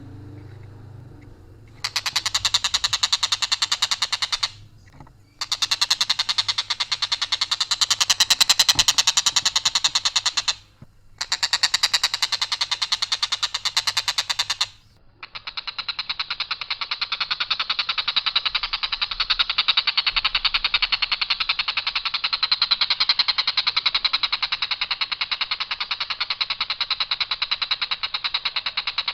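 Tengkek buto kingfisher giving a long, harsh, rapid rattling call on a single unvaried line. It comes in three long bursts with brief breaks, then runs unbroken from about halfway through.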